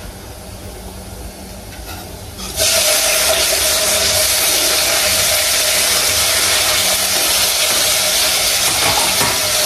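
Chopped tomatoes tipped into a hot frying pan: a loud sizzle starts suddenly about two and a half seconds in and holds steady.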